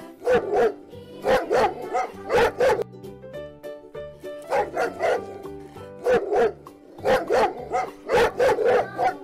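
Dog barking in short groups of two or three barks, a recorded animal-sound effect over light background music, with a pause in the barking about three seconds in.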